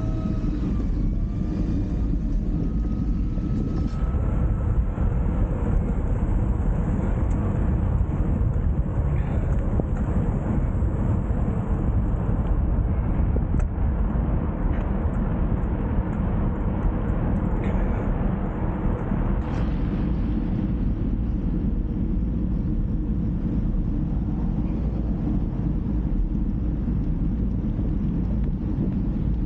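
Steady low rumble of wind and road noise while riding. A faint tone slides in pitch during the first couple of seconds.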